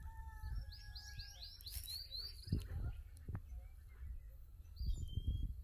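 A bird singing a quick run of about eight short, high, arching notes, over a steady whistled note that stops about one and a half seconds in. Low rumble on the microphone with a few soft thumps, the loudest halfway through and near the end.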